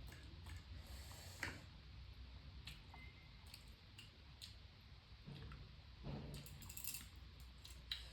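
Faint eating sounds: scattered small clicks and soft taps, a few a second, with a slightly louder cluster about six to seven seconds in.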